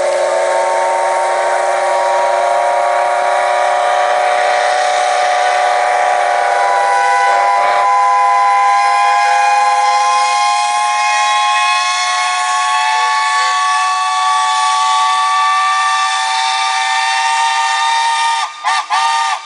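Several traction engines' steam whistles sound together in a long, loud, sustained chord of different pitches. The pitches creep slowly upward and a few whistles drop out part way through. Near the end the chord breaks into a few short toots.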